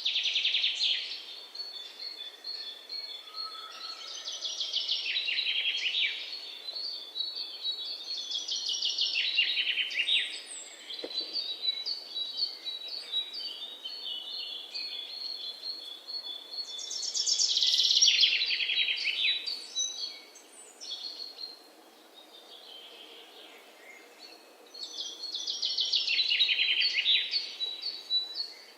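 Alexandrine parakeet chicks calling: bouts of fast, rasping chatter that swell and fade every few seconds, with softer repeated notes in between.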